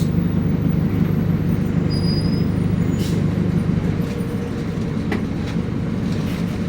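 City bus engine hum and road rumble from inside the bus while it drives. There is a brief hiss about three seconds in and two light clicks a little after five seconds.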